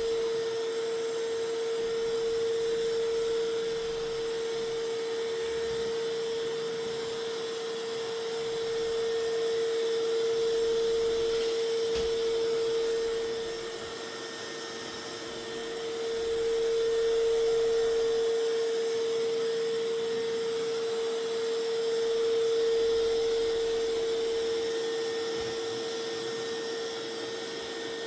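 Mova Z60 robot vacuum running a cleaning pass: a steady motor whine at one fixed pitch over a soft hiss, growing louder and fainter by turns.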